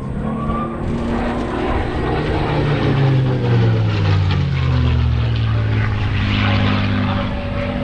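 P-51 Mustang's 12-cylinder piston engine droning as the fighter makes a pass; the engine's pitch drops a few seconds in as it goes by, then holds steady.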